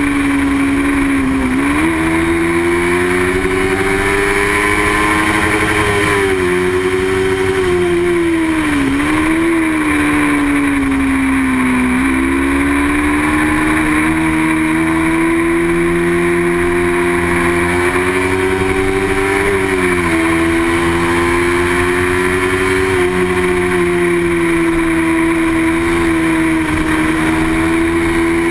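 Racing motorcycle engine running hard at high revs, its pitch held nearly steady. There are several brief dips in pitch that climb back over the course of it.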